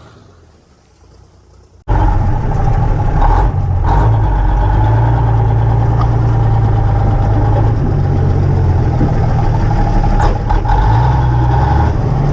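Old dump truck's Cummins diesel engine running steadily and loud, cutting in abruptly about two seconds in after a short quiet stretch.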